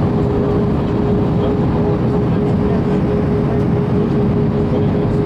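Airbus A321 cabin noise heard from inside: a steady, loud low rumble of the airliner's engines and airflow, with a steady whine held at one pitch throughout.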